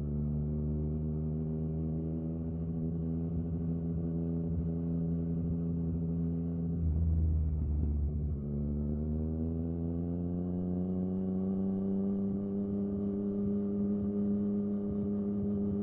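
Yamaha FZ-09's 847 cc inline-three engine running with a steady note that sags slowly, dips with a deeper rumble about halfway through, then climbs gradually and holds.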